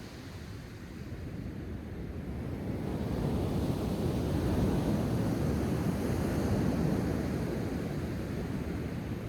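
Sea surf washing onto the shore, a wave building about a second in and easing off near the end.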